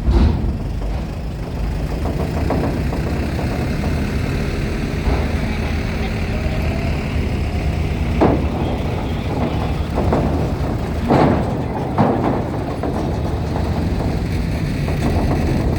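Heavy vehicle engines running steadily at low revs, with three sharp knocks in the second half.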